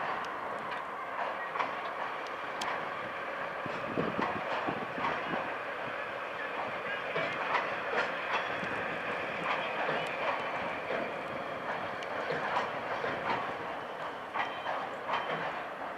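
Cement freight train hauled by a DD51 diesel locomotive passing, its wagon wheels clicking again and again over the rail joints.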